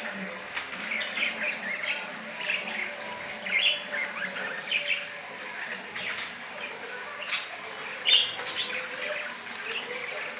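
Budgerigars chirping and chattering in short, irregular calls, with a few sharp clicks standing out near the end.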